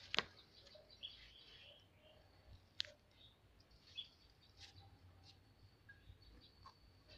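Near silence, with a few faint, short bird chirps and occasional soft clicks.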